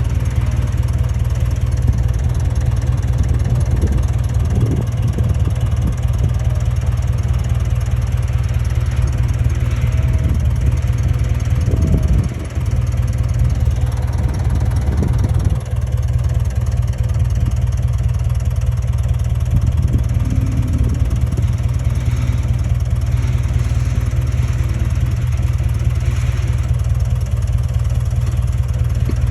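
Bulldozer's diesel engine running steadily with a low, heavy drone, the level dipping briefly a couple of times about halfway through.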